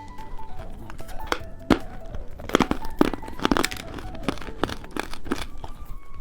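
Plastic candy wrapper being torn open and crinkled, a string of sharp crackles, over soft background music.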